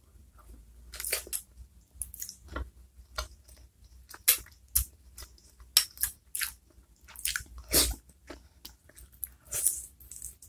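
Close-miked eating of chicken feet in chili sauce: irregular wet smacks, bites and chewing clicks, several a second with short gaps.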